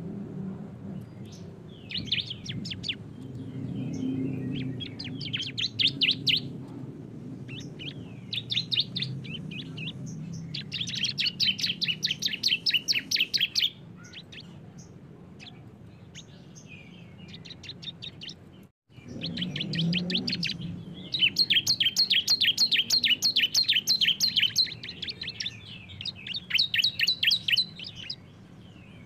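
Bar-winged prinias (ciblek) singing in the rapid 'ngebren' style: bursts of fast, evenly repeated high chirps, each burst lasting one to three seconds, from two birds mixed together. The sound drops out for an instant about two-thirds of the way through.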